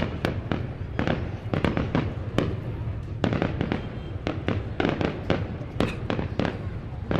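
Fireworks display: many sharp bangs and crackles, several a second in irregular succession, over a continuous low rumble.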